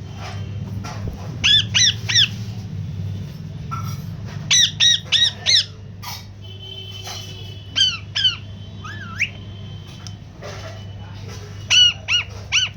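Young cockatiel calling in short, sharp chirps, each dropping in pitch, in quick runs of two to four with one rising call in between. A steady low hum runs underneath.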